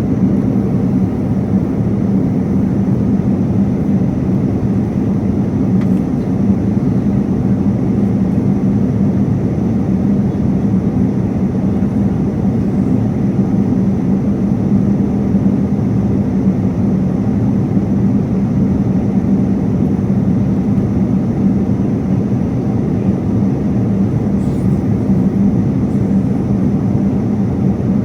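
Airliner cabin noise in flight: a steady rush of air and engine drone with a constant low hum running through it.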